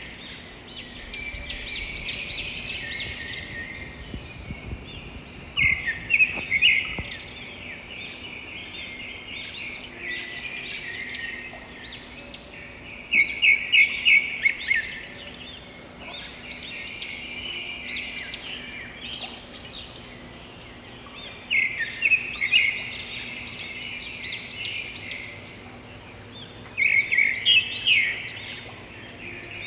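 Birds chirping and singing continuously, with loud bursts of quick repeated chirps every several seconds.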